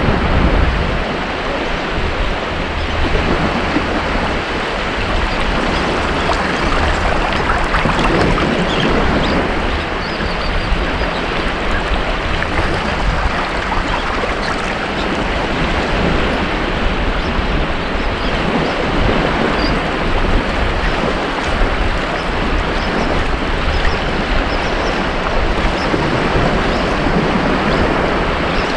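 Ocean surf washing onto a beach: a steady, dense rush of breaking waves that swells a little about eight seconds in.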